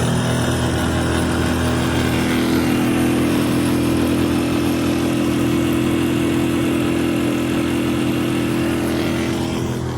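6.5 horsepower Hangkai outboard motor running steadily at full throttle, pushing a 12-foot aluminum boat carrying two people; it runs smoothly on fresh oil. The engine note eases slightly near the end.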